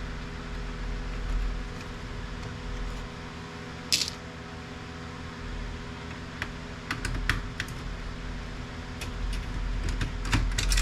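Scattered light clicks and taps of a printer's plastic and metal parts being handled and unscrewed during disassembly, with one sharper click about four seconds in and a quicker run of clicks near the end.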